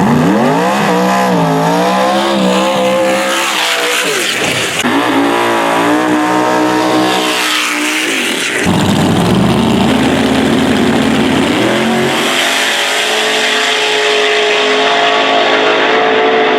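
Drag race car making a full-throttle pass: the engine's pitch climbs, drops at each gearshift about 4 and 8 seconds in, then holds fairly steady near the end.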